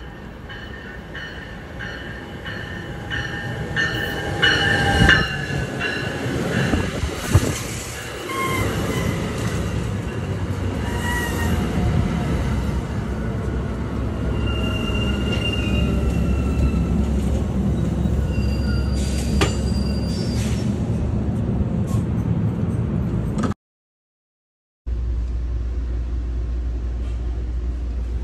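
A bi-level exo commuter train pulls in along the platform. Its rumble grows louder as it approaches, with high wheel squeals and a few clanks as the cars roll past and slow. After a brief dropout near the end there is a steady low rumble from inside a train car.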